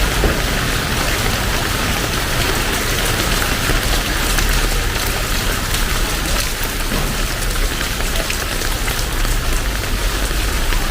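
Heavy rain pouring steadily: a dense hiss with many close drops pattering, over a low steady rumble.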